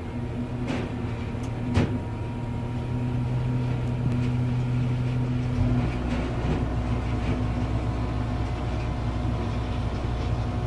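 Diesel engine of a heavy wood-processing machine running steadily, with two sharp knocks about one and two seconds in. Its low rumble grows heavier about halfway through.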